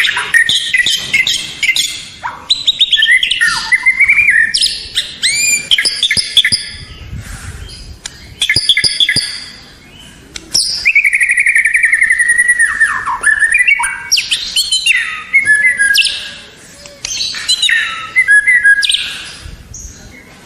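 White-rumped shama (murai batu) singing a long, varied song: loud whistled phrases, quick runs of notes and rising and falling glides, broken by short pauses.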